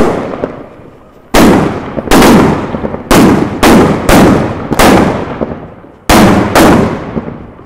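Homemade firework battery (a 'matje') going off in sequence: about nine loud, sharp firework bangs, several in quick pairs about half a second apart, each trailing off in a long echo.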